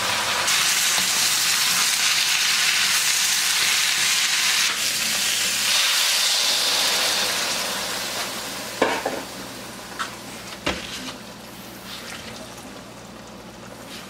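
Vegetables and freshly added dinosaur kale sizzling loudly in a hot wok as the kale wilts. The sizzle dies down after about eight seconds, with a few sharp knocks, and then goes on more quietly.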